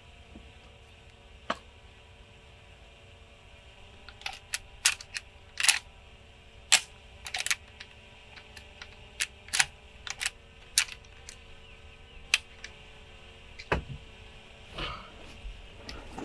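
About a dozen sharp, short clicks at irregular intervals, mostly in the middle of the stretch, over a faint steady hum.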